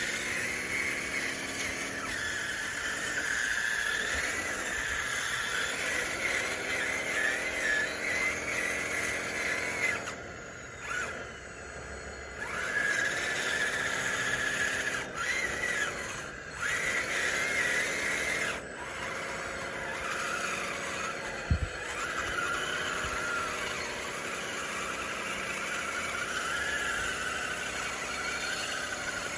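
RC dozer's electric drive motors and geartrain whining as it pushes dirt, the pitch rising and falling as it speeds up and slows down, with a high wavering squeal over it. It pauses briefly a few times, and there is one sharp click about two-thirds of the way through.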